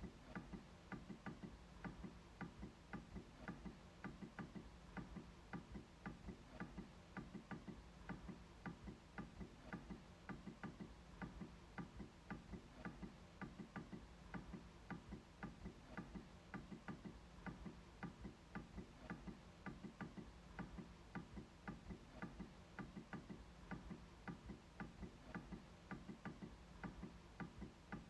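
MacBook trackpad being clicked again and again in a steady, even rhythm of quiet, sharp clicks.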